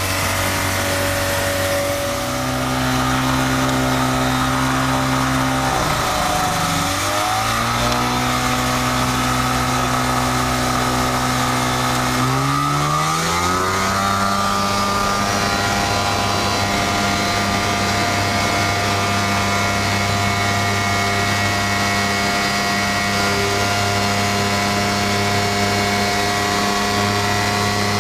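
Kitfox light aircraft's engine and propeller heard from inside the cockpit, the pitch stepping up about two seconds in, dipping briefly around six seconds, then climbing smoothly to a steady high full-power drone for the takeoff run.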